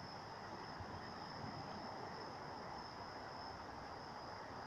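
Faint chorus of insects, a steady high-pitched trill that never lets up.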